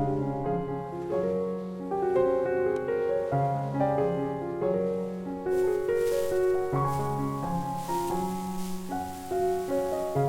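Soft background piano music: a slow melody of single notes over held low notes. A faint high hiss comes in about halfway through.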